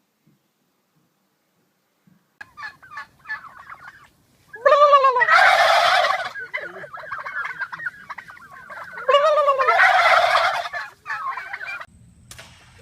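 Bird calls: softer chattering calls begin about two seconds in, then come two loud, rattling calls each about a second and a half long, about four seconds apart, with more chattering between them.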